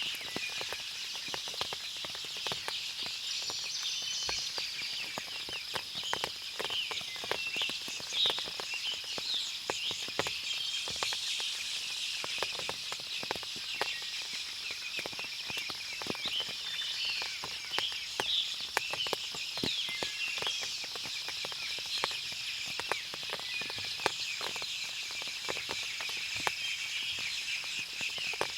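Forest ambience after rain: many birds chirping and calling over a steady high insect buzz, with irregular sharp ticks of water dripping from the trees.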